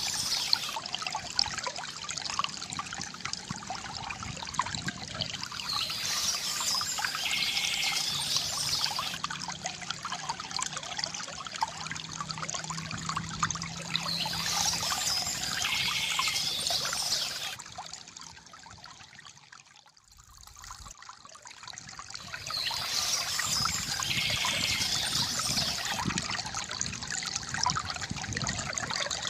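Water from a bamboo fountain trickling and pouring steadily, with bird chirps returning about every eight to nine seconds. The sound fades down briefly about two-thirds of the way through and comes back up.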